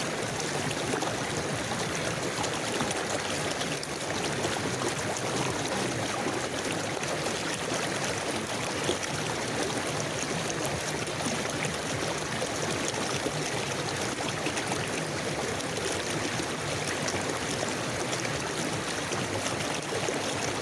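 A river flowing steadily, its water rushing and babbling over rocks in an even stream.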